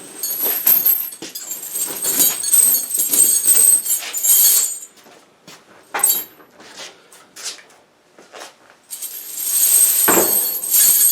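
Studded steel tractor tire chains rattling and clinking as they are pulled off the rear tire and handled. The rattling is dense for the first few seconds, thins to scattered clinks, then comes back louder about nine seconds in.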